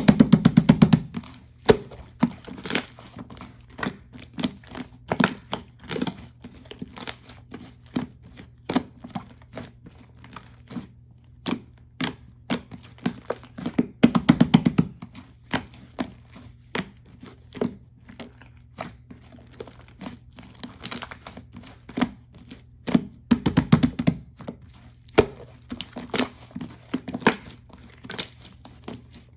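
Crinkly material being handled close up: crinkling and tearing with many scattered sharp clicks, denser bursts at the start, about halfway and again near the end.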